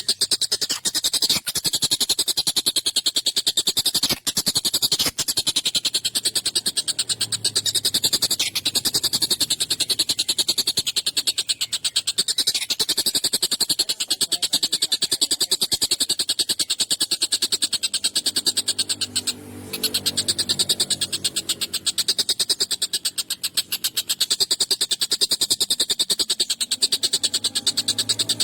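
Tengkek buto kingfisher giving a sharp, harsh chattering call, a very fast run of repeated notes that goes on almost without pause. There is one brief break about two-thirds of the way through.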